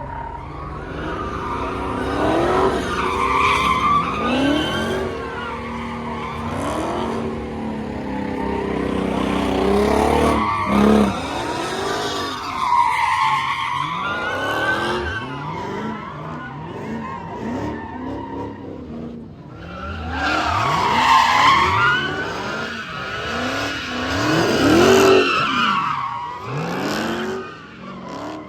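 Cars doing burnouts: tires squealing in long wavering screeches while engines rev up and down again and again, loudest about three-quarters of the way in.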